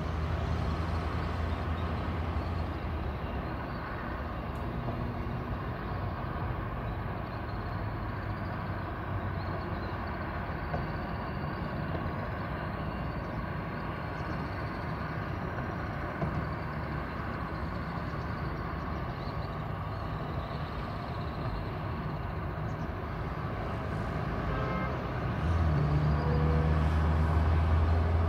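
A long passenger train hauled by two electric locomotives, an EP1P and an EP20, running at a distance: a steady low rumble that grows louder near the end.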